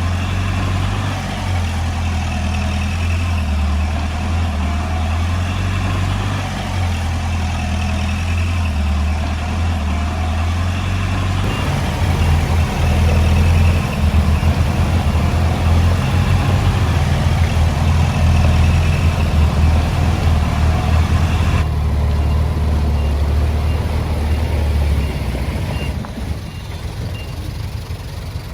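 Heavy-equipment diesel engine running steadily, growing louder and rougher about halfway through, then easing off near the end. Faint, evenly spaced high beeps sound during the louder stretch and as it eases.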